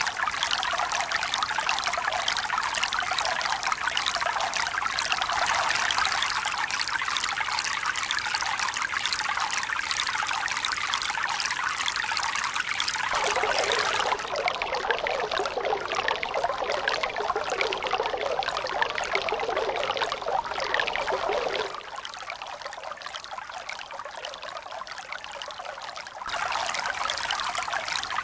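Steady rushing, splashing water. It changes suddenly a few times: it grows deeper about 13 seconds in, then goes quieter for a few seconds from about 22 seconds before switching back.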